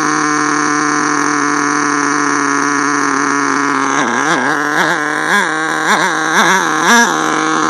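HPI Savage nitro RC truck engine running at a steady high idle, then blipped on the throttle about six times in quick succession before settling back to idle. The owner judges the mixture still a little rich on the high-speed needle.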